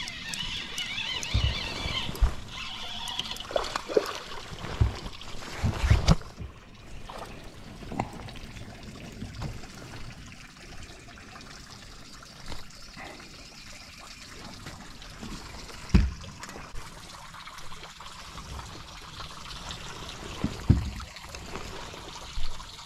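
Water trickling and splashing, with scattered dull knocks every few seconds.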